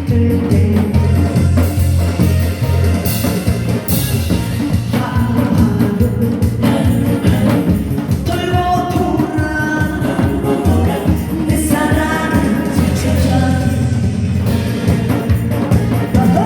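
A singer performing a song over instrumental accompaniment with a steady heavy bass beat, the vocal line coming in phrases.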